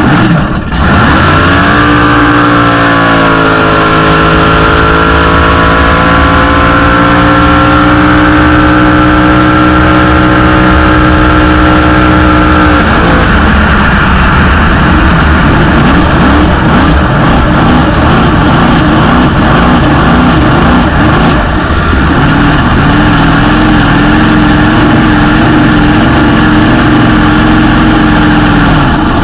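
Blown and injected big-block Chevy V8 drag boat engine running loudly. Its pitch climbs sharply at the start and holds steady, then turns rough and uneven about halfway through before settling into a steady note again near the end.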